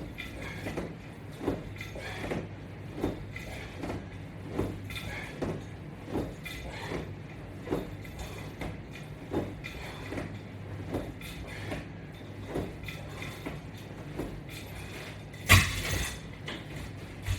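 Rhythmic knocks or creaks from exercise repetitions on a resistance-band and strap workout rig, about one every 0.8 seconds, over a steady low hum. A single louder bump comes near the end.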